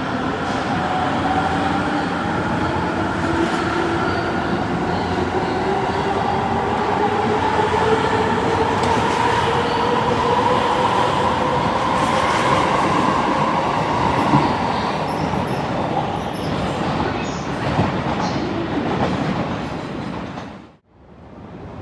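Electric limited express train running, its motors giving a whine that rises slowly in pitch as it picks up speed, over wheel and rail noise. The sound cuts off abruptly near the end.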